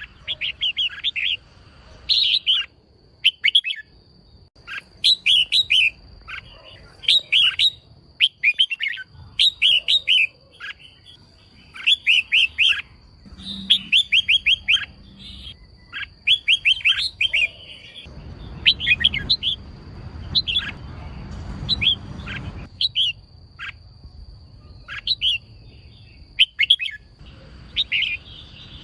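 Female red-whiskered bulbul calling: short, quick phrases of a few chirping notes, repeated about once a second. A faint steady high tone runs underneath, and a low rumble rises for a few seconds past the middle.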